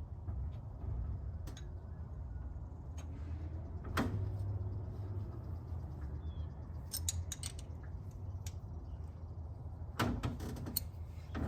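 Scattered sharp metal clicks and clinks of hand tools and valvetrain parts being handled: one strong click about four seconds in, a few around seven seconds, and a quick run of clinks near the end, over a steady low hum.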